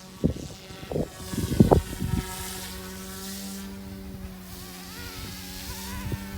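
Small electric RC helicopter flying: a steady motor-and-rotor hum that wavers slightly in pitch. Wind gusts buffet the microphone in the first two seconds.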